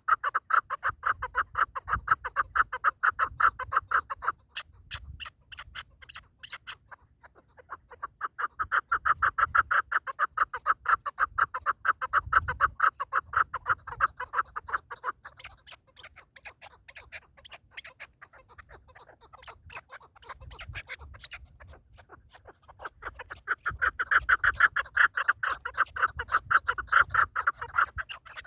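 Partridge calling: a long run of rapid, repeated clucking notes. It comes in three loud bouts, at the start, from about 8 to 15 seconds and again near the end, with fainter calls in between.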